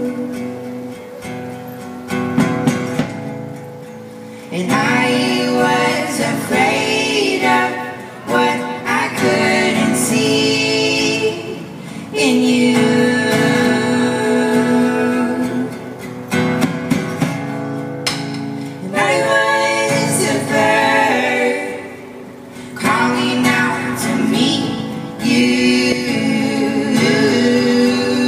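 A song performed live: a voice singing over guitar, in swelling phrases.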